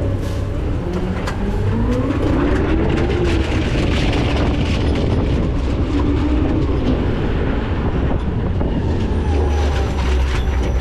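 McNeilus ZR rear-loader garbage truck running loud with a deep rumble. The engine pitch rises and falls twice, with clanking and rattling throughout.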